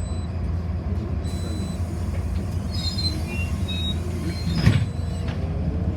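Inside a moving city bus: the steady low drone of the bus running on the road, with faint rising and falling whine and a few high squeaks. About three-quarters of the way through there is a single knock.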